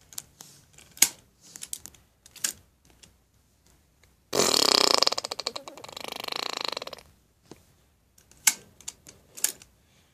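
A long, buzzing fart noise, most likely blown with the lips as a raspberry, starting about four seconds in and lasting nearly three seconds. It is played as a joke fart for the toy dogs. Light clicks and taps come before and after it.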